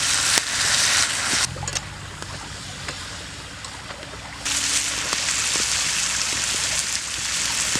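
Potatoes sizzling in hot oil in a pan, a steady hiss with a few faint knocks. The hiss drops away sharply about a second and a half in and comes back about three seconds later.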